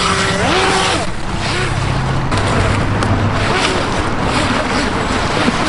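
A steady rushing noise, with a voice calling out briefly in the first second.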